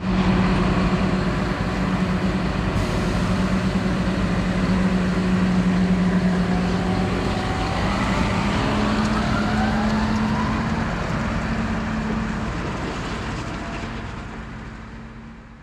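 Tractor diesel engine running steadily, its hum stepping up in pitch about halfway through with a faint rising whine as it speeds up. The sound fades out near the end.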